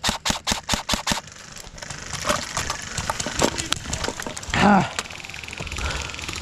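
Airsoft gun firing a quick string of shots, about six a second, that stops a little over a second in. Scattered clicks and knocks follow, with a short shout near the end.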